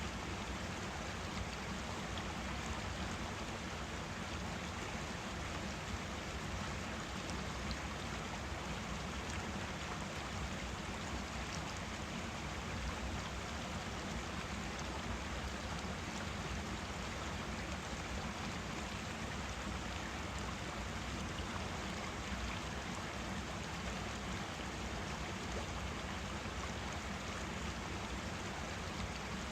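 Forest stream flowing steadily over rocks, a constant rushing and babbling of water.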